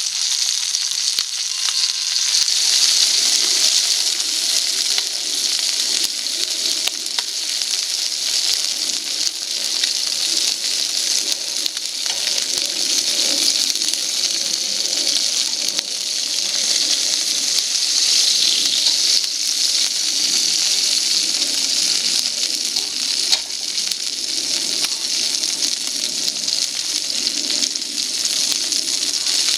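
Food frying in a steel crepe pan over a campfire, a steady sizzle that swells and eases a little, with a few faint ticks.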